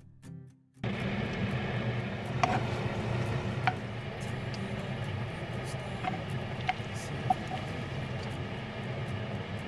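Dried whitebait sheet shallow-frying in oil in a pan: a steady sizzle over a low rumble, starting about a second in, with a handful of sharp pops of spattering oil.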